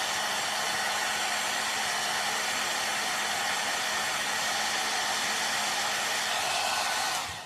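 Handheld hair dryer blowing steadily, then switched off near the end, its motor whine falling away.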